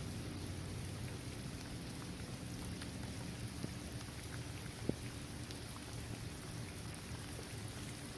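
Steady rain falling on a hard court surface, trees and grass, an even hiss with scattered individual drops ticking through it and one sharper drop about five seconds in.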